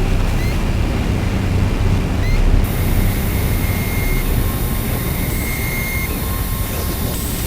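Dark ambient noise drone: a dense, steady wash of noise over a deep rumble, with thin high tones fading in and out and two short rising chirps in the first few seconds.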